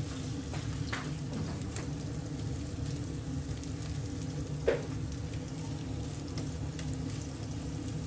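Ginger slices frying in black sesame oil in a nonstick pot, stirred with a plastic spatula that scrapes and taps against the pot over a steady low hum. One louder knock of the spatula on the pot comes about two-thirds of the way through.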